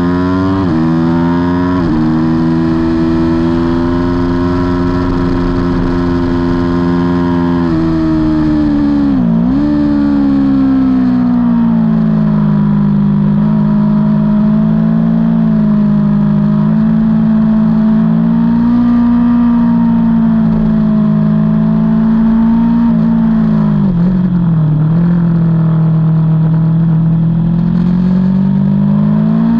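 Aprilia Tuono V4's V4 engine running hard under race throttle, heard on board. It revs up through two quick upshifts at the start, holds high revs, drops sharply and recovers about nine seconds in and again near twenty-four seconds, then climbs again at the end.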